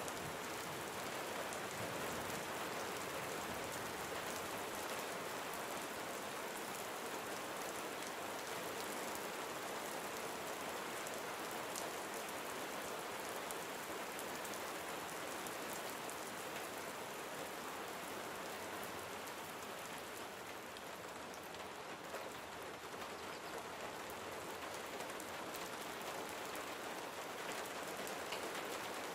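Gentle rain falling steadily: an even hiss of rain on surfaces with scattered individual drops.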